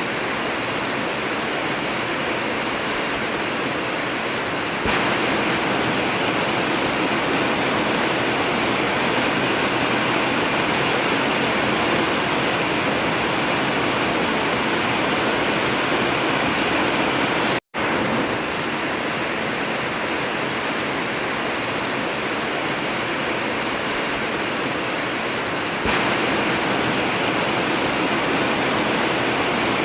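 Heavy rain falling steadily on an old tin roof, an even hiss. It steps up slightly in level about five seconds in and again near the end, and cuts out for an instant a little past halfway.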